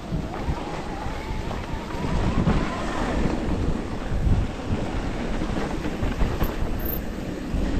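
Wind buffeting the microphone of a camera riding along on a mountain bike, an uneven low rumble that swells and eases in gusts, with faint ticks from the bike and trail.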